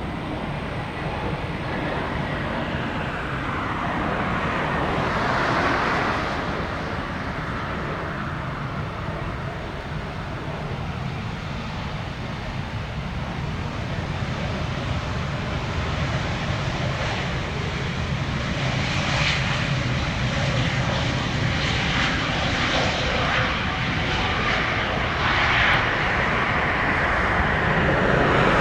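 Jet airliner engines, a continuous rumble and roar of a jet passing near the runway, swelling and growing louder toward the end.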